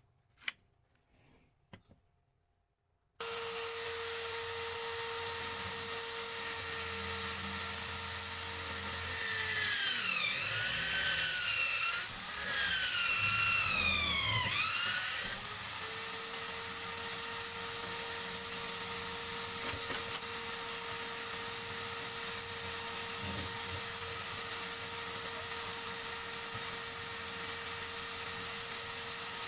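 Small electric power tool, drill-like, running steadily at high speed. It starts abruptly after a few faint clicks, and about midway its pitch sags and wavers for several seconds as it bites into the work before settling back to full speed.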